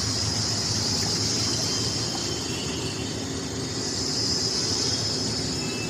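Heavy rain falling, a steady hiss with no let-up.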